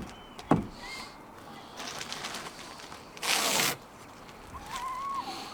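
Two sharp knocks half a second apart, then a brief loud rustling hiss a little past the middle, with short thin bird calls.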